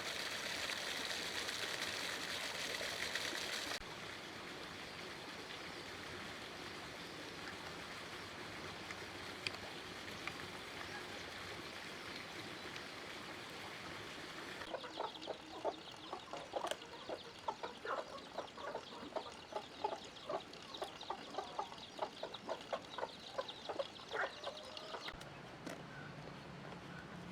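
A steady rushing hiss, then a quieter even background; about halfway through, chickens start clucking in many quick short notes, which stop abruptly near the end.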